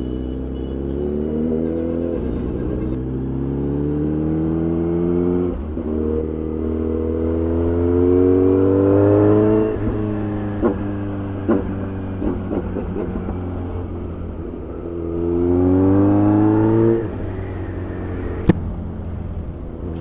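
Motorcycle engine under way, its pitch climbing in several runs of acceleration and dropping suddenly at each gear change or roll-off. A sharp click near the end.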